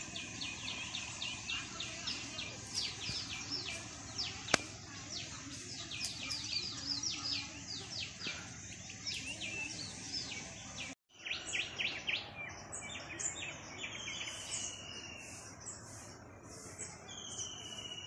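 Outdoor birdsong: many birds chirping in a dense run of short, quick high chirps, with a single sharp click about four and a half seconds in. The sound cuts out for a moment near eleven seconds, then sparser calls follow, among them a long falling whistle near the end.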